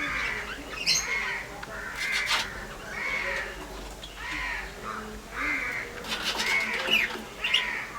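Birds calling over and over, a short harsh call about once a second, with a few sharp clicks between the calls.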